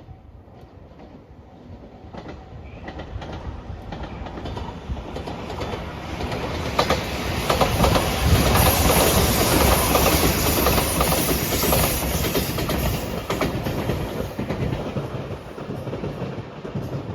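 A train passing close by: the rumble swells over several seconds, peaks about halfway through with the wheels clattering rapidly over the rail joints, then dies away.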